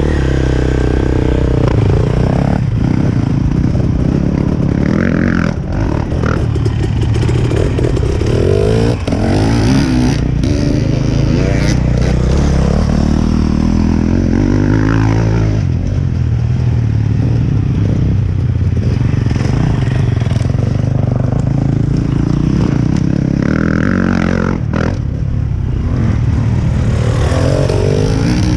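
Dirt bike engine running hard, revving up and dropping back again and again, with some clatter.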